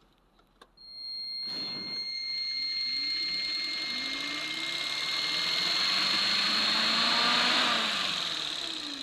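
Electric fan with a soft-start circuit switched on with a click. It spins up gradually over several seconds, its hum rising in pitch and getting louder, with a steady high electronic whine from the controller. Near the end it slows down and the hum falls away.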